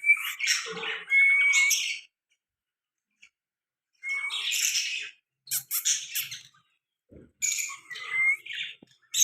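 Pet parrot calling in four bursts of harsh chattering calls with short whistled notes, separated by brief silences.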